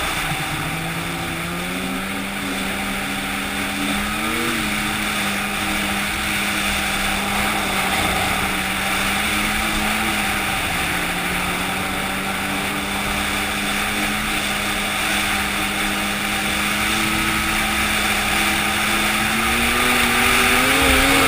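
An engine running steadily. Its pitch holds level, rising briefly about four and a half seconds in and climbing again near the end as it speeds up.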